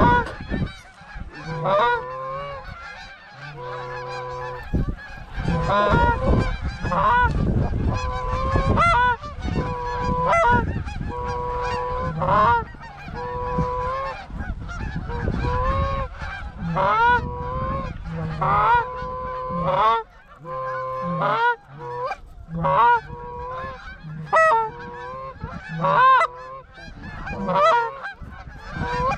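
Geese honking and clucking over and over, many short upward-sliding honks mixed with held notes. A low rumble sits under the calls through the middle stretch.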